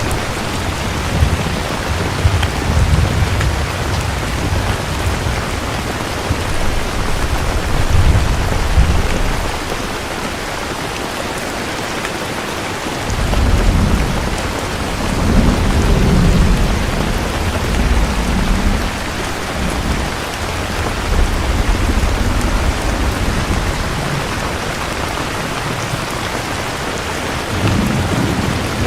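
Steady heavy rain with rolling thunder underneath, rumbling in long low swells: one in the first several seconds, a stronger one from about halfway, and another starting near the end.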